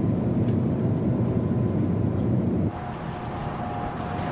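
Airbus A380 flight-deck noise on approach: a steady rush of airflow and engine noise. About two and a half seconds in it drops abruptly in level, leaving a quieter hum with a faint steady tone.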